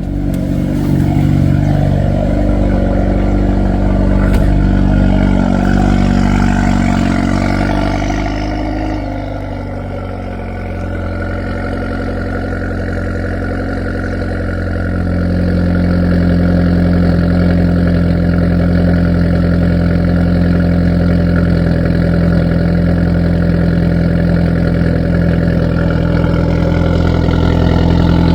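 Hyundai Veloster N's 2.0-litre turbocharged four-cylinder idling during a winter cold start. The pitch and level dip about a third of the way in, then the engine settles into a louder, steady idle with a deeper hum from about halfway.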